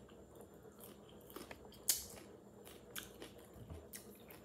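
Crisp crunches of a raw cucumber slice being bitten and chewed close to the microphone. The loudest crunch comes about two seconds in, with another about a second later.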